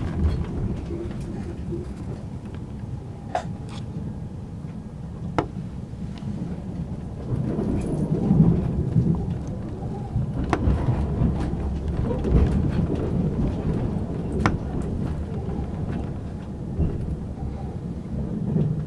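Low rumble of a JR Hokkaido passenger train running on the track, heard from inside the carriage, with occasional sharp clicks; the rumble grows louder about halfway through.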